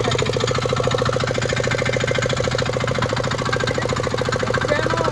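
Single-cylinder 247 cc diesel engine of a Kisankraft KK-IC-250D power weeder running steadily, with a fast, even knock from each firing stroke.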